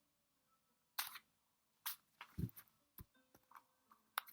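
Scattered sharp clicks and taps, with a dull thump about two and a half seconds in: tarot cards being handled and laid down on a table.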